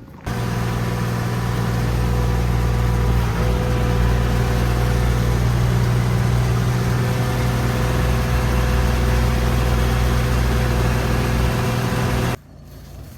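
Vehicle engine running steadily at an even speed. It starts abruptly and cuts off suddenly near the end.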